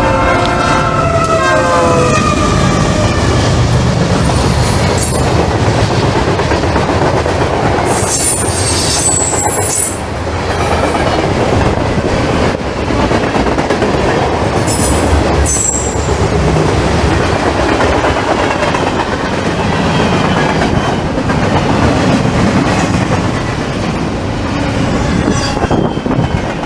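Freight train passing close by. The locomotive's horn ends in the first two seconds, dropping slightly in pitch, and the cars then rumble and clatter over the rail joints, with high wheel squeals twice, about a third of the way in and about halfway through.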